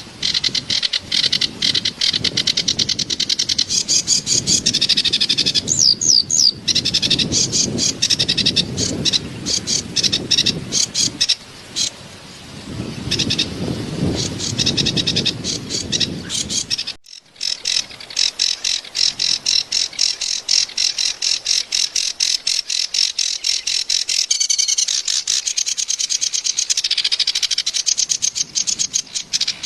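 Kerak basi (a reed warbler) singing a harsh, fast chattering song of rapidly repeated notes, with a short break about 17 seconds in. Running water is heard under the song through the first half.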